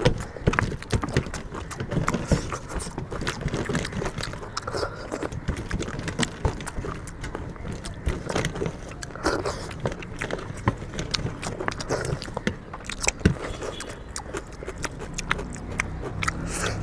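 People eating chicken curry and rice by hand: chewing and irregular small clicks and knocks of food and plates, with no steady rhythm.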